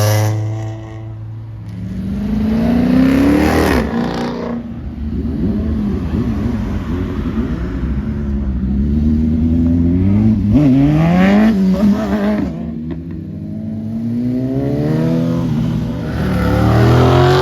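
Car engines revving, the pitch climbing in repeated rev-ups: one a few seconds in, another past the middle and a third near the end.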